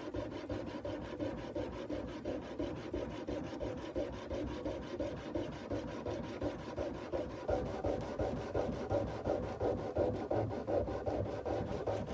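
Sandpaper rubbed by hand back and forth along a kukri blade, in quick, even strokes about three to four a second, a little louder from about halfway in.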